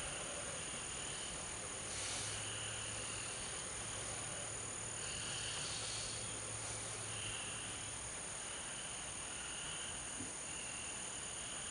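Frogs calling, a string of short calls each under a second long, over a steady high-pitched drone.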